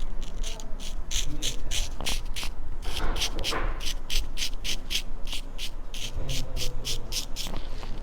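A razor scraping across a scalp to shave the head, in quick repeated strokes of about three to four a second.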